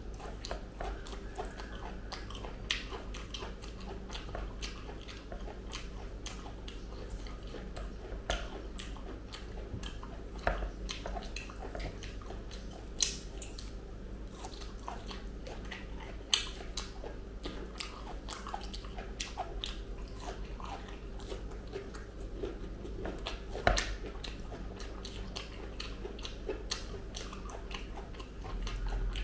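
Close-up chewing and biting of ripe jackfruit pods, with fingers pulling the pods apart. The chewing is a dense, irregular run of small clicks, with about five louder sharp clicks standing out.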